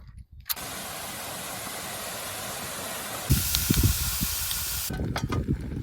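A steady hiss that starts suddenly, grows harsher with some low thumps about three seconds in, and cuts off abruptly near the end.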